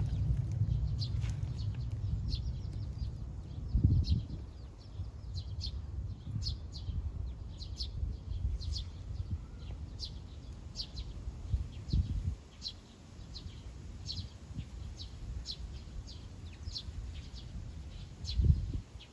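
A small bird calling in short, high chirps, about one a second, with a few low thumps in between.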